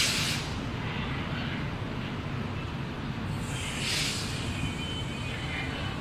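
ICF passenger coaches of an Indian Railways express rolling slowly past, with a steady low rumble from the wheels and bogies. The tail of a loud air-brake hiss fades in the first half second, and a shorter hiss comes about four seconds in.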